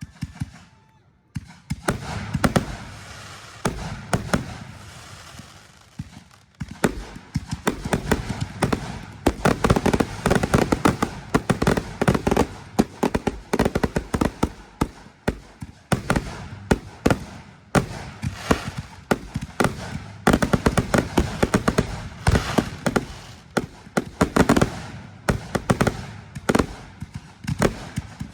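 Fireworks going off in rapid succession: a dense, continuous run of crackling bangs and pops that starts about a second and a half in, with a brief lull about a quarter of the way through.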